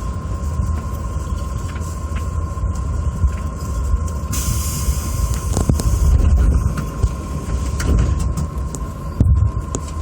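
Electric commuter train heard from inside the front car: a steady low rumble with a constant thin hum above it and a few sharp clicks from the rails.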